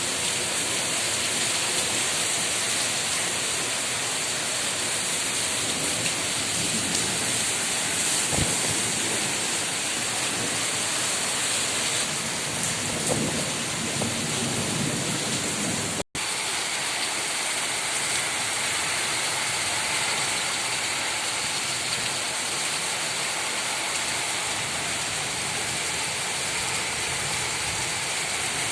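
Heavy rain pouring steadily, a dense hiss, with the sound cutting out for a split second about halfway through.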